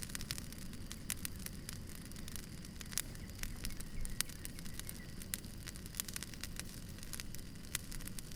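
Bonfire burning, wood crackling and popping in frequent irregular sharp snaps over a steady low rumble.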